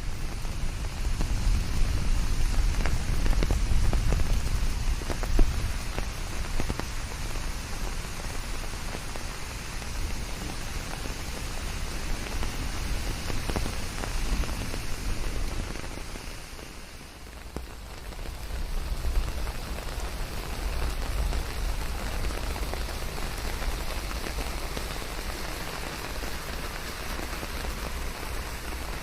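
Steady rain falling, a dense hiss of many drops over a deep low rumble. It eases briefly a little past halfway, then picks up again.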